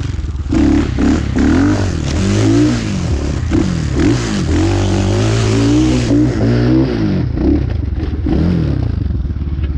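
Dirt bike engine revving hard over and over, its pitch rising and falling in quick swoops, with some scraping and clatter.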